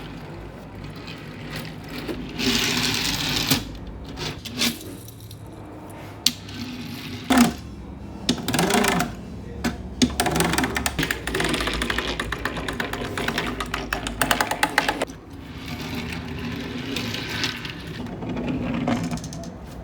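Plastic toy parts clicking, knocking and rattling as they are handled, with a longer stretch of fast, even clicking in the middle.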